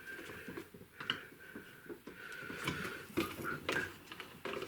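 Faint scattered taps and scrapes from hands handling brushes and paper while painting.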